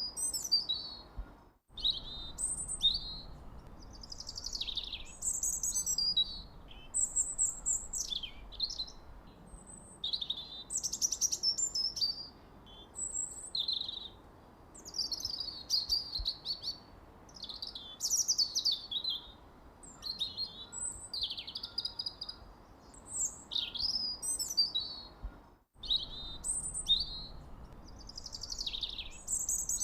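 Songbirds chirping and twittering nonstop, quick high chirps and short trills overlapping one another, with a faint steady background hiss. The sound cuts out for a split second twice.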